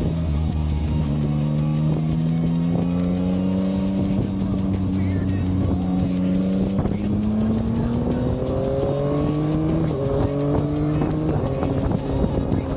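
Yamaha Tracer 9's inline three-cylinder engine pulling under acceleration, its pitch climbing steadily for most of the stretch, then dropping briefly twice near the end as it shifts up.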